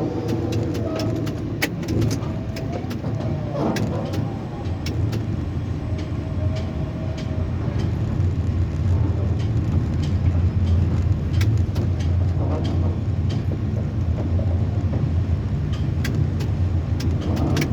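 Steady low mechanical drone, a little louder in the second half, with scattered short clicks and ticks.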